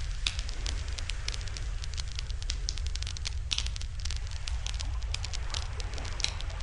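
Wood campfire burning, crackling with many sharp, irregular pops, over a steady low rumble.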